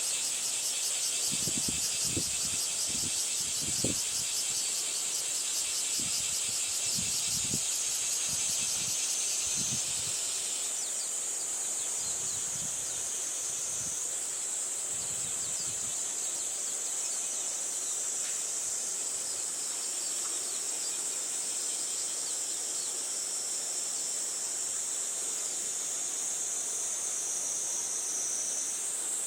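Insects calling in a steady high-pitched chorus, with a second, rapidly pulsing insect call that stops about ten seconds in. Gusts of typhoon wind buffet the microphone in low thumps through the first ten seconds or so.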